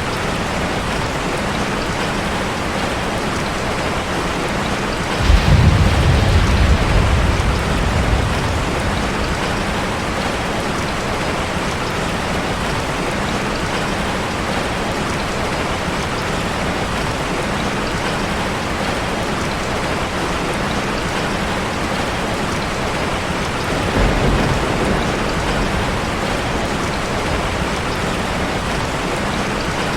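Steady heavy rain hitting a car, with two low rolls of thunder: one breaks suddenly about five seconds in and fades over a few seconds, the other comes about 24 seconds in.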